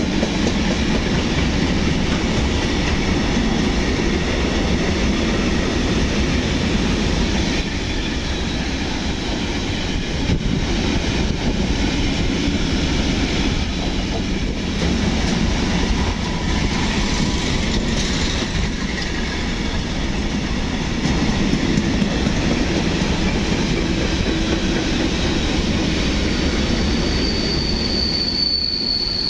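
Long freight train of container wagons rolling through the station, wheels clacking over rail joints in a steady rumble, with a high-pitched wheel squeal near the end.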